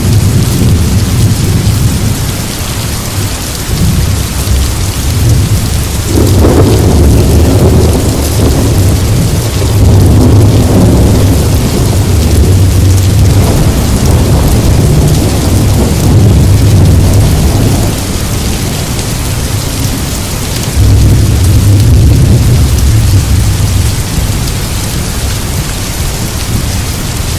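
Steady heavy rain with thunder rumbling low underneath, swelling about six seconds in, easing, then rolling again around twenty-one seconds.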